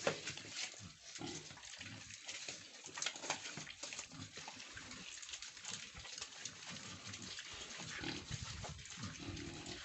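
Two-month-old pigs grunting while they chew and munch fresh Madre de Agua leaves, with irregular crunching and snuffling.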